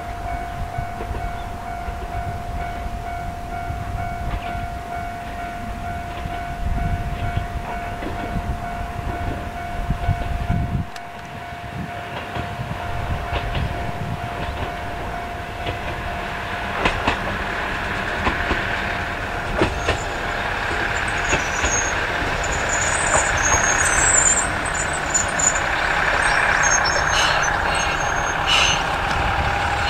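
Tenryu-Hamanako Railroad diesel railcar running in toward a station. Its engine and wheel noise grows louder through the second half, with clicks over the rail joints and high brake squeals in the last several seconds as it slows to stop. A steady high tone sounds throughout.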